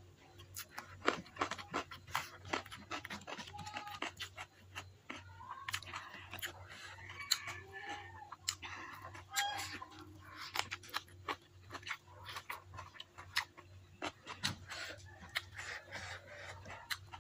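Close-up chewing and lip-smacking of mouthfuls of rice and stir-fried water spinach eaten by hand: a steady run of irregular wet clicks and crunches.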